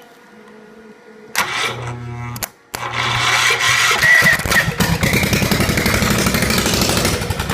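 Kohler K321 single-cylinder engine cranked over by its starter about a second and a half in, then, after a short pause, catching and running loudly on a shot of starting ether.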